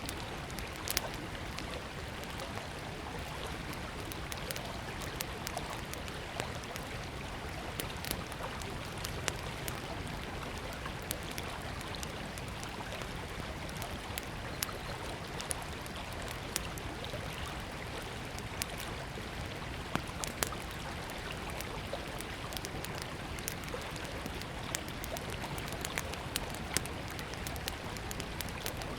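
Small wood fire crackling, with irregular sharp pops, over the steady rush of a flowing river.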